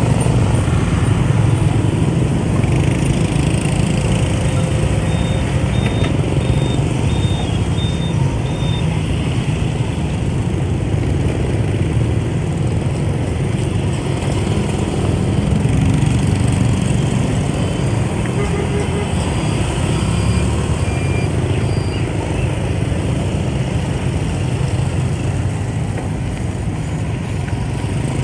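Dense rush-hour motorbike traffic heard from a riding motorbike: a steady low rumble of many scooter and motorbike engines running together, with faint short high beeps about five seconds in.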